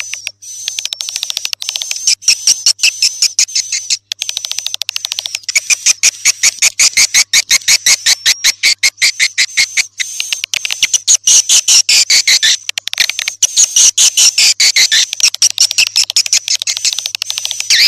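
Swiftlet lure call: rapid trains of dry clicks with shrill twittering chirps over them, some sliding down in pitch, the kind of sound played to draw swiftlets in.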